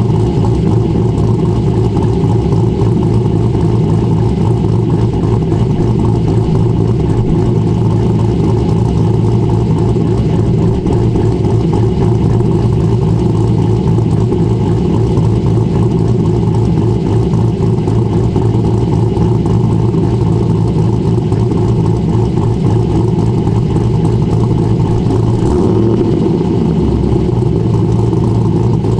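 Cammed Corvette V8 with a BTR Stage 3 camshaft, running steadily at an even pitch through its headers, X-pipe and dual exhaust. The engine note changes near the end as the revs begin to shift.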